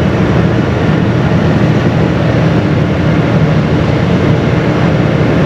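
Steady, loud rumble and rush aboard a moving car ferry, with no distinct events.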